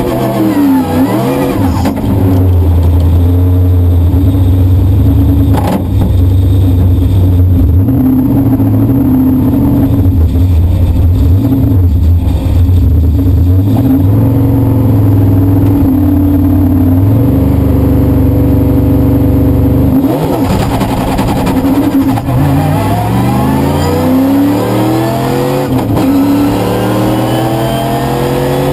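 LS V8-swapped Mazda Miata drift car's engine heard loud from inside the cabin, running at a steady pitch for most of the time. About twenty seconds in it starts rising in pitch again and again as it revs.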